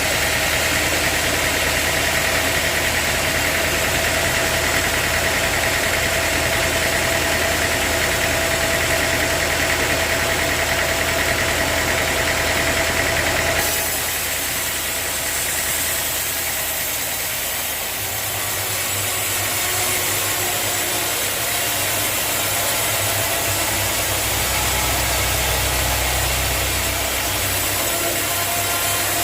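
Sawmill machinery running steadily: a continuous mechanical drone with a high, steady whine. The sound changes abruptly about halfway through, and a deeper hum comes in for the second half.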